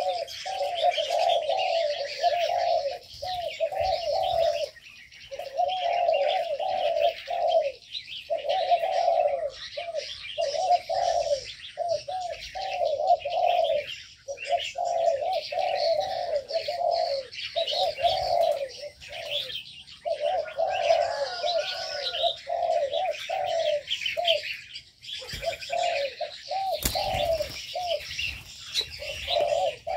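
Doves cooing over and over in short bubbling phrases, with a constant chatter of small birds chirping higher above them.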